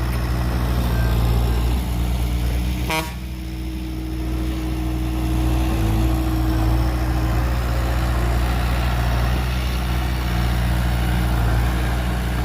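Heavy diesel engine of earthmoving equipment running steadily, with a sharp click about three seconds in.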